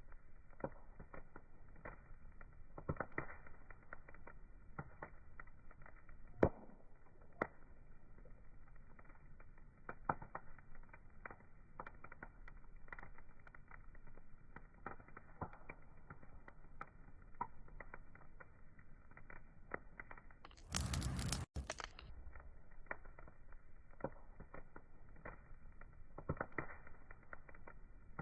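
Wood fire crackling, with sharp pops scattered irregularly over a soft hiss. About three-quarters of the way through, a louder rush of noise lasting under a second cuts in and stops abruptly.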